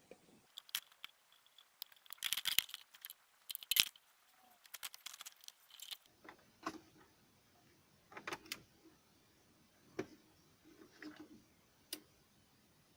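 Scattered sharp clicks, taps and short rattles of small hard objects being handled, busiest in the first few seconds, then sparser single clicks.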